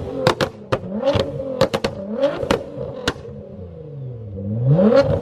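A tuned car engine revved hard again and again, its pitch swinging up and down, with a string of sharp exhaust pops and bangs.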